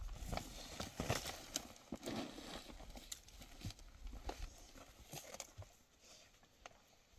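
Irregular clattering steps on stony mountain ground, a scatter of sharp knocks and clicks that are thicker in the first few seconds and thin out towards the end.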